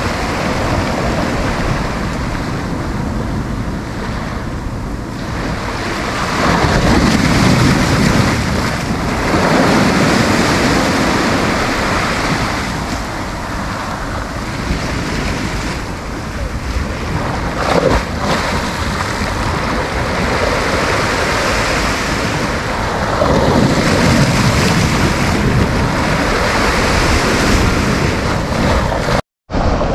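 Sea waves breaking and washing up a beach, the surf swelling and falling every few seconds, with wind buffeting the microphone. The sound cuts out for a moment near the end.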